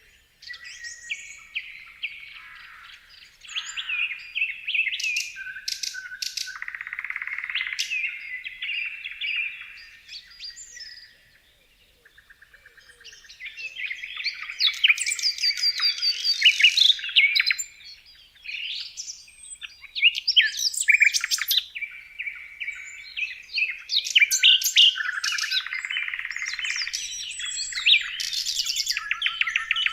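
Several songbirds chirping and singing at once, with quick overlapping trills and high chirps; the calls thin out briefly a little before halfway and then resume thickly.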